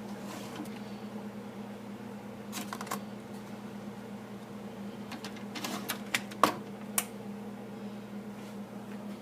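Keurig single-serve coffee maker humming steadily, with a few sharp clicks about three seconds in and a cluster of clicks between about five and a half and seven seconds, the loudest at about six and a half.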